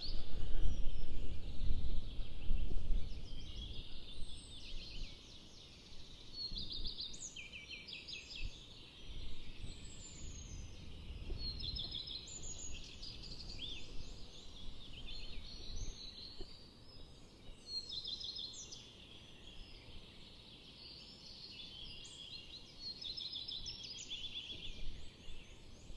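Several songbirds singing short, varied trilled phrases, one after another with hardly a gap, over a low wind rumble on the microphone that is strongest in the first few seconds.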